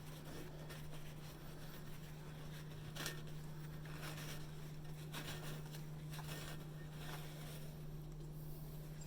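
Faint rustling and scraping of paper towels wiping rust out of the inside of an exhaust pipe, with a small knock about three seconds in, over a low steady hum.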